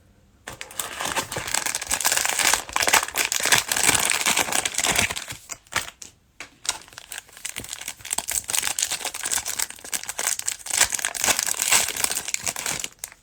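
Plastic cellophane wrapper of a trading card cello pack crinkling as it is torn open and crumpled, starting about half a second in, with a brief pause around six seconds in.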